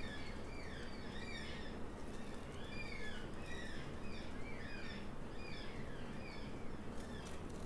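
Birds chirping and calling, many short overlapping chirps a second, over a faint steady low hum.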